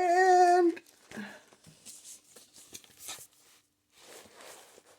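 A short hummed vocal sound at the start, then soft rustling of paper being handled a few times as handmade journal pages and pocket inserts are moved.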